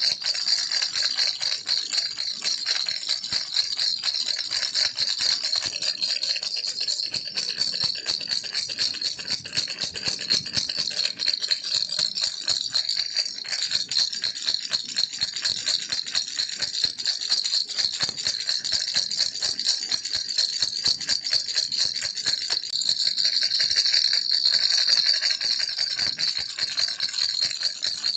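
Baby rattle toy shaken continuously, a dense stream of fine, bright rattling clicks with no pause.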